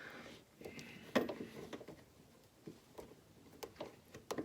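A few scattered light clicks and knocks from hand tools and fasteners being handled during an engine damper install, the sharpest about a second in.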